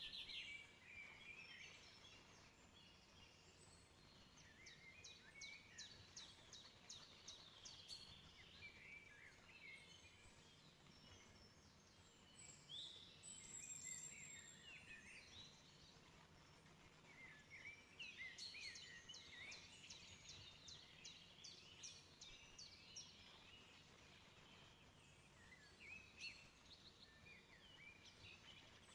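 Faint birdsong in the background: clusters of chirps and quick trills every few seconds, over a low steady hiss.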